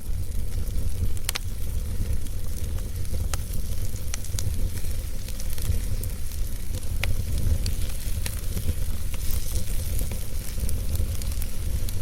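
Wood fire burning in a fireplace: a steady low rumble of flames with crackling and scattered sharp pops from the burning logs.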